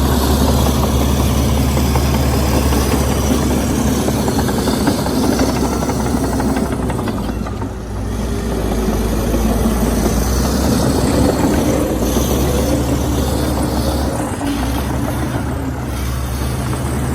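Komatsu D61EX bulldozer's diesel engine running steadily under work. The level dips briefly about eight seconds in.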